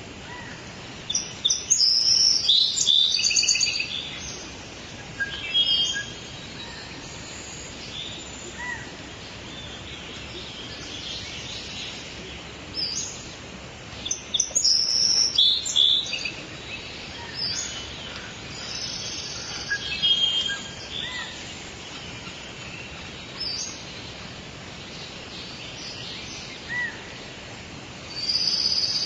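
Songbirds singing over a steady background hiss, with bursts of rapid high chirping phrases a few seconds apart and scattered single notes in between.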